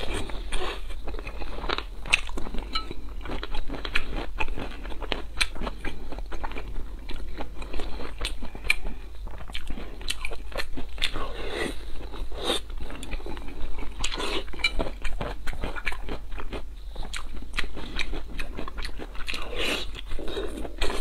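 A person chewing braised pork belly and glass noodles up close, with many quick, irregular mouth clicks.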